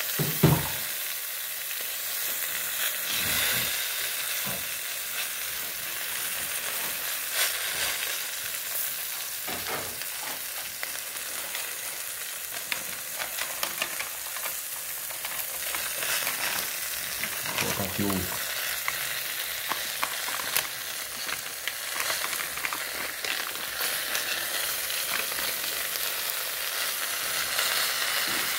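Fried chicken pieces and freshly chopped tomato, onion and pepper sizzling steadily in a metal pot with the frying oil poured off, with a few knocks of a metal spoon against the pot, the loudest about half a second in.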